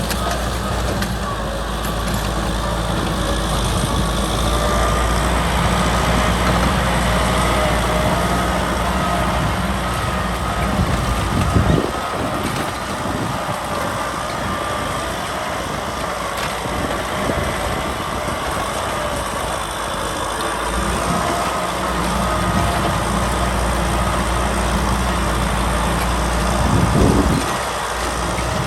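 Kubota tractor's diesel engine running steadily while plowing, with two brief louder surges about halfway through and near the end.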